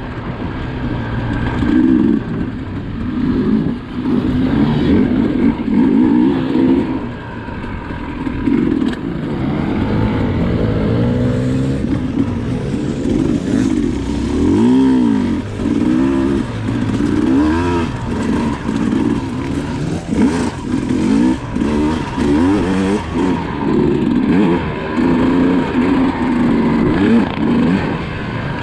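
Sherco SE300 single-cylinder two-stroke enduro engine revving hard and continuously. Its pitch rises and falls every second or two as the throttle is opened and shut.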